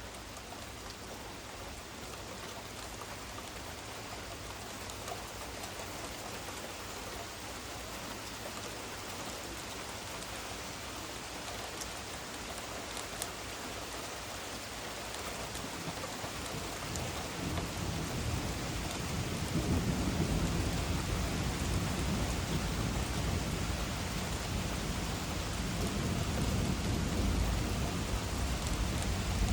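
Heavy rain falling steadily through a thunderstorm. A low rumble of thunder builds from about halfway through and rolls on, louder for the last third.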